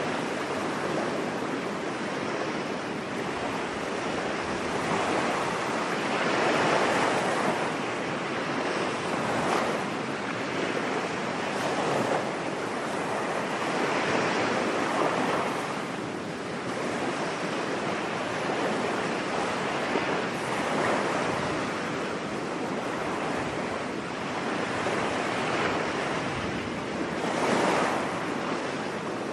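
Ocean waves breaking and washing on a beach, a steady surf hiss that swells with each wave every few seconds.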